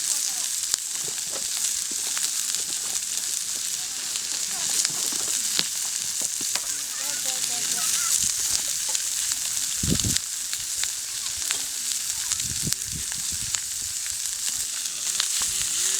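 Food frying in a pan over a campfire: a steady sizzle with scattered small crackles and pops, and one low thump about ten seconds in.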